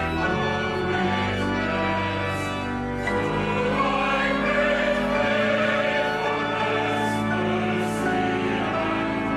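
Choir singing in long held chords.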